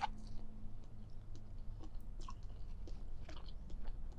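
Close-miked chewing of a mouthful of soft food: faint, scattered wet mouth clicks and smacks.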